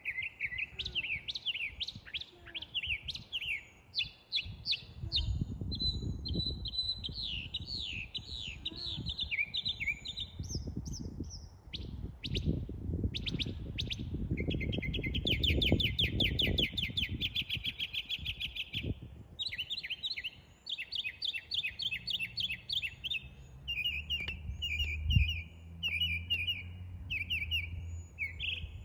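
Songbirds chirping and singing, with many quick repeated chirps and trills throughout. A low rumble runs under them through the middle.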